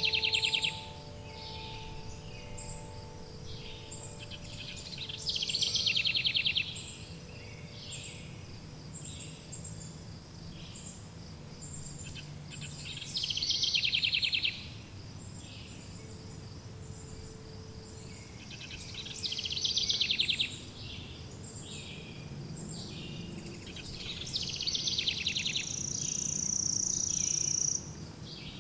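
Forest songbirds singing in loud bursts of rapid trills about every six or seven seconds, with a long, steady high note near the end, over a low ambient hum. Faint wind chime tones ring in the first few seconds and again about midway.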